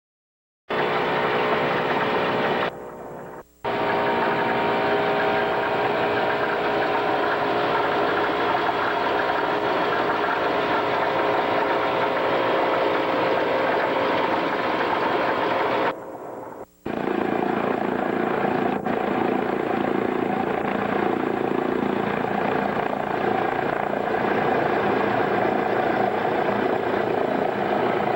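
Piston engines of a PBY-5A Canso water bomber, its twin radial engines, running steadily. The sound drops out briefly twice, about three seconds in and again about sixteen seconds in, and after the second gap the engine note is different.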